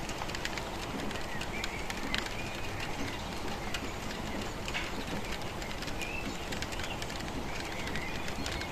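Steady rainfall with scattered drops tapping, and a bird giving short calls a few times over it.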